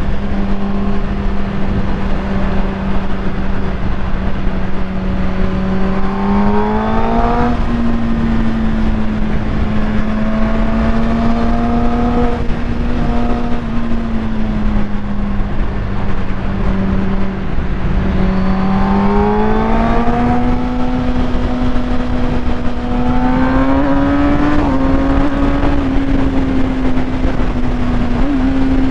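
Kawasaki ZX-10R's inline-four engine running through a full Akrapovic titanium exhaust, held at a mostly steady engine speed with the revs climbing briefly about six seconds in, again around twenty seconds, and once more around twenty-four seconds.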